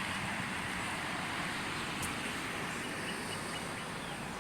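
Steady outdoor background noise, like distant traffic, with a single click about two seconds in and a few faint high chirps about three seconds in.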